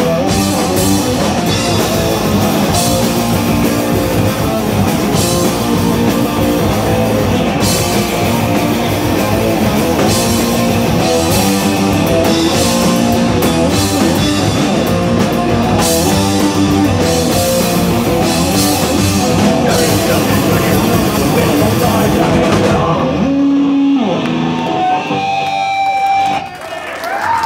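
Live band playing loud, heavy punk with distorted electric guitars, bass and a drum kit. About 23 seconds in, the song stops and a few guitar notes are left ringing and wavering.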